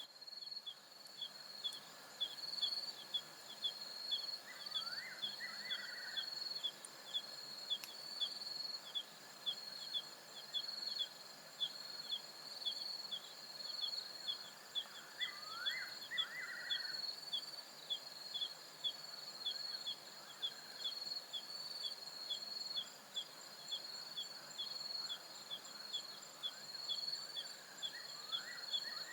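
Night insects of the African savanna: a steady high trill with crickets chirping in a regular pulse of about two chirps a second. About every eleven seconds a short call sweeping upward in pitch cuts through, three times in all.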